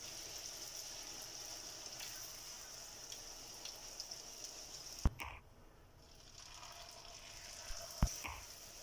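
Puri deep-frying in hot oil in a small pan, with a steady sizzle. A sharp click about five seconds in, after which the sizzle is much fainter, then builds again, with another click near the end.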